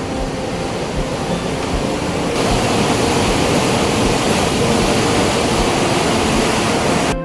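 Water rushing through a canal lock's valves as the lock releases water: a steady, hissing rush that grows louder about two seconds in and cuts off abruptly near the end.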